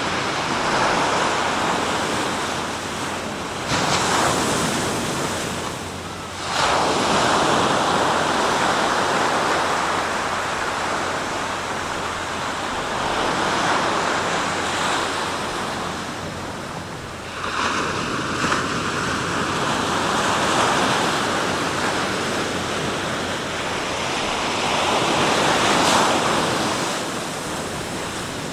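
Sea surf on the East Sea coast: a continuous rush of waves breaking and washing up the shore, with fresh waves surging in several times, loudest near the end.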